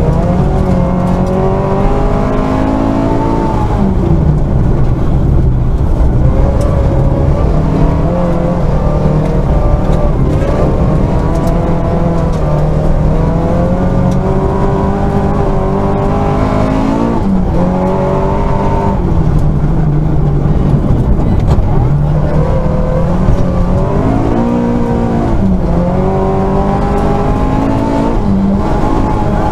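Rally car engine heard from inside the cabin, driven hard: the engine note repeatedly climbs under acceleration and drops sharply at gear changes, then falls away and picks up again through the corners.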